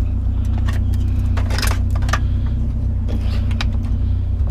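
Pickup truck engine idling steadily, with scattered clanks and rattles of scrap metal being handled and set into the truck bed, the busiest about one and a half to two seconds in.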